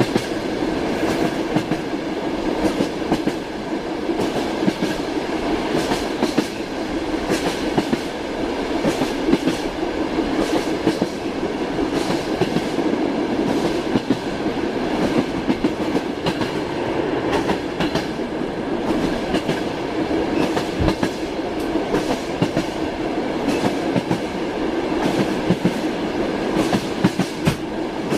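Moving train: the steady rumble of a railway carriage on the rails, with frequent irregular knocks of the wheels running over the track.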